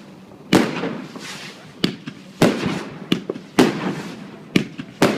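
Fireworks going off: about seven sharp bangs in quick succession, each followed by a trailing crackle and echo.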